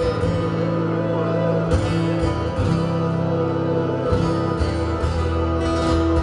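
Live rock band playing loudly, recorded from the audience: electric guitars and bass holding chords that change every second or so, with drums and a wavering held tone above.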